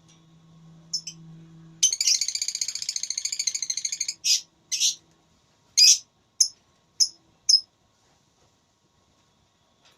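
A lovebird giving its long, rapid chattering trill ('ngekek') for about two seconds, then six single sharp, high chirps.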